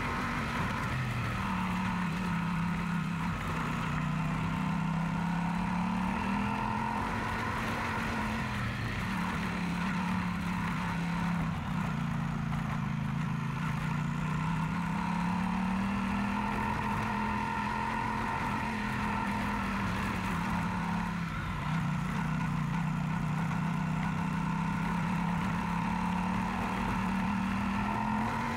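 Yamaha Super Ténéré parallel-twin motorcycle engine running under way, its note sinking and climbing again every several seconds as the throttle is eased and opened.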